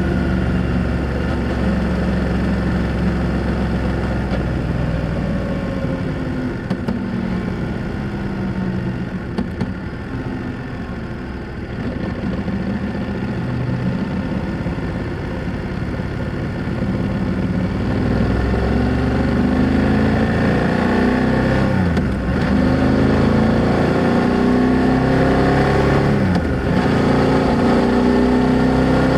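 BMW F800GS parallel-twin engine and exhaust under way: it eases off and slows for several seconds, then accelerates hard, the pitch rising and the sound getting louder, with two brief breaks for upshifts.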